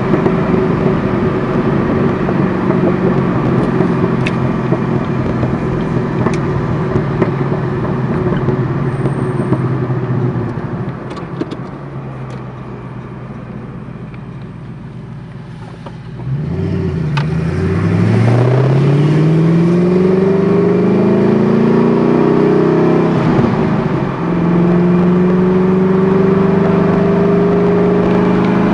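Twin-turbocharged Ford GT V8 running steadily under load, then easing off about ten seconds in. From about sixteen seconds it accelerates hard with a rising pitch, breaks briefly near twenty-four seconds as at a gear change, and pulls steadily again.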